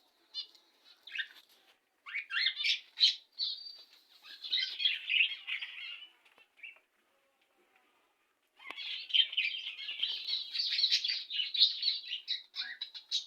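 Budgerigars chattering and warbling in fast, squeaky bursts, with a pause in the middle before the chatter picks up again and runs on.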